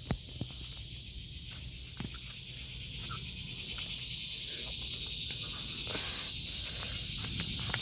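Steady high-pitched chorus of insects buzzing, growing slightly louder over the second half, with a few light clicks of footsteps.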